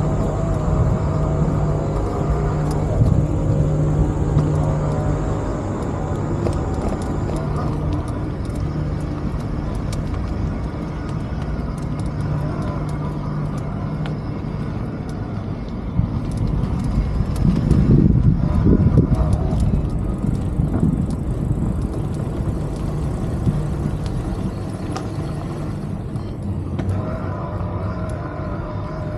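Road traffic in a city street: vehicles running with a steady low hum, one passing louder about two-thirds of the way through.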